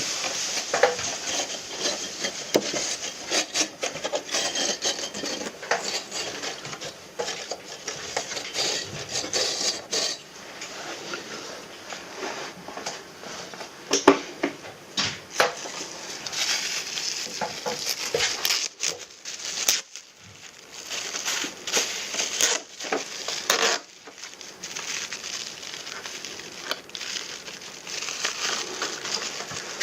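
Irregular clattering, knocking and scrubbing of hands at work on an air conditioner during cleaning, with a hiss underneath; the knocks are loudest around the middle.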